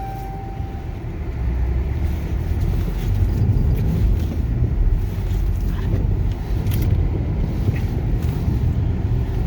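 2016 Jeep Cherokee's engine running under load with a steady low rumble, heard from inside the cabin, as the SUV is driven to work itself out of a deep snowdrift it is stuck in.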